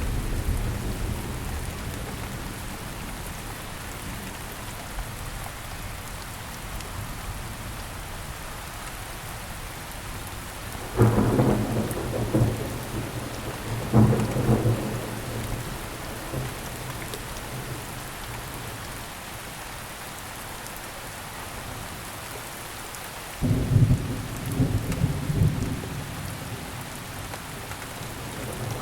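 Steady rain falling in a thunderstorm, with thunder: a sudden clap about eleven seconds in, another about three seconds later, and a longer rumbling peal starting about two-thirds of the way through.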